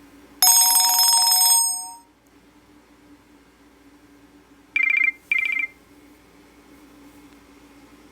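Nokia E63 mobile phone's loudspeaker playing short alert tones: a bright chime of about a second that fades out, then a few seconds later two quick beeps.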